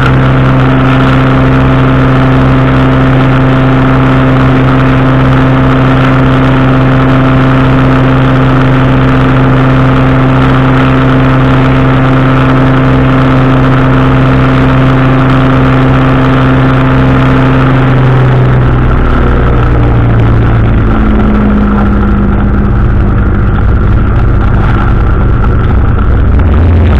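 Powered parachute's engine and propeller running loudly and steadily in flight. The steady tone changes about two-thirds of the way through.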